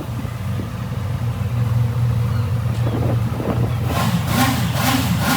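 Honda CB650F's 649cc inline-four engine idling steadily, then from about two-thirds of the way in the throttle is blipped several times in a row, the revs rising and falling with each blip.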